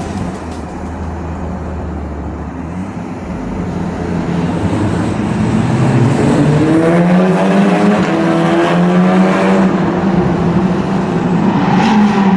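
Audi S3 8P's turbocharged 2.0 TFSI four-cylinder, tuned with an aftermarket downpipe, accelerating hard: the engine note climbs in pitch over a few seconds and then holds high.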